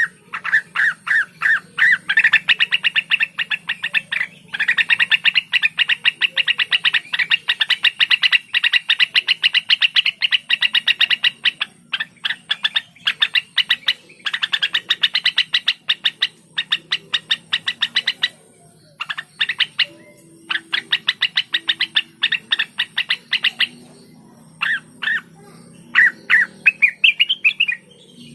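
Cucak wilis (a leafbird) singing a rapid-fire song: long trains of short, sharp notes many per second, broken by brief pauses.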